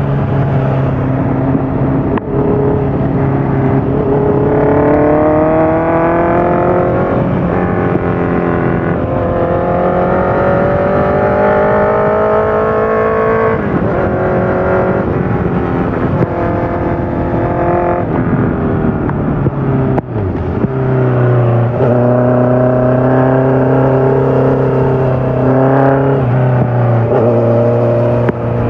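Honda CBR650F's inline-four engine through a full Akrapovic exhaust with the dB killer fitted. It pulls up through the revs several times, with short drops in pitch between: gear changes under acceleration. Late on it holds a steady pitch for a few seconds.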